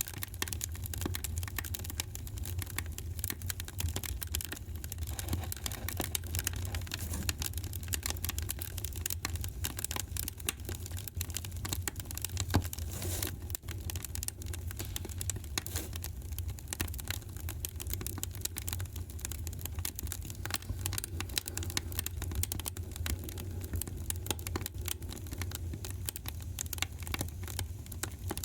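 Fireplace fire crackling, with dense, irregular pops and snaps over a low, steady rumble; one louder pop about twelve seconds in.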